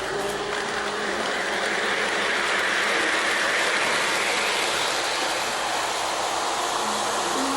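O-gauge model train running on its track, a steady rushing rumble of motor and wheels that swells as it comes close, loudest in the middle, then eases off.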